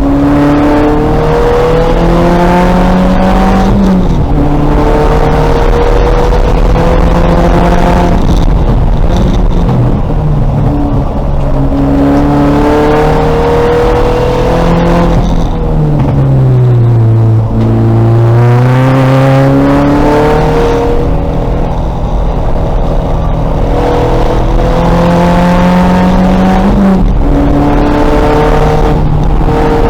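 Race-prepared 2000 VW Golf engine at full throttle on track. The pitch climbs through each gear and drops sharply at the upshifts, about four times. Midway it falls away, then climbs again.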